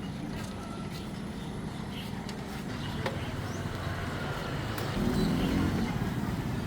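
Motor vehicle engine running steadily with road noise, getting louder about five seconds in.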